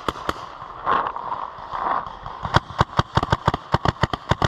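Paintball markers firing: a couple of single shots at the start, then a rapid string of shots at about five a second from halfway on. A short rushing noise about a second in.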